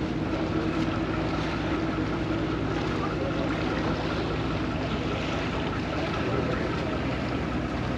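Vaporetto water bus under way: its engine running with a steady hum over a constant rush of water and wind.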